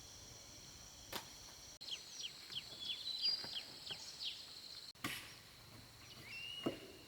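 Outdoor nature sound with a steady high insect drone. A bird calls a quick series of about ten short, falling chirps near the middle, and there are a few sharp clicks.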